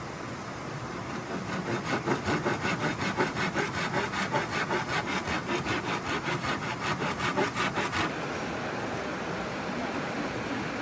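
Hand saw cutting wood with quick, rhythmic back-and-forth strokes, starting about two seconds in and stopping abruptly about eight seconds in, over steady rushing water.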